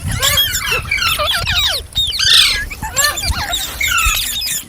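Green parrots chattering and screeching, many short gliding calls overlapping each other without pause.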